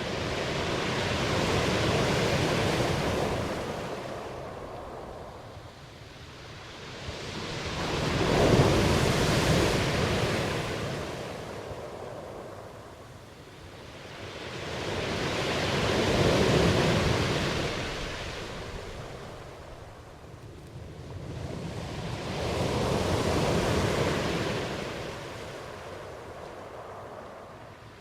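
Ocean waves washing in and drawing back in slow swells, each rising and falling over about seven seconds, four in all.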